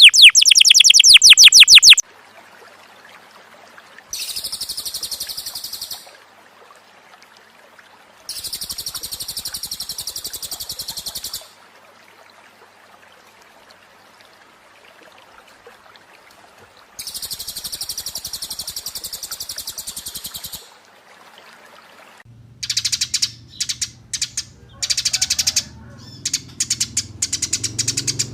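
Small songbirds singing. A rapid run of falling notes at the start is followed by three separate high, fast buzzy trills of two to three seconds each, with pauses between them. Near the end come sharp, rapid chirps over a low hum.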